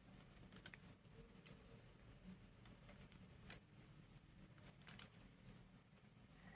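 Faint paper handling: a few short, scattered clicks and ticks of paper being worked by hand, the sharpest about three and a half seconds in, over a low steady room hum.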